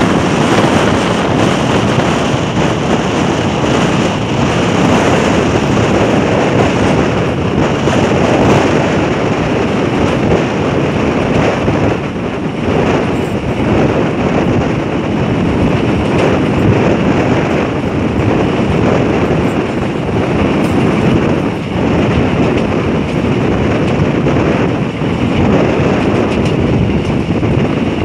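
Moving passenger train heard from a coach window: a loud, steady rush of wind across the microphone over the running noise of the coach on the rails.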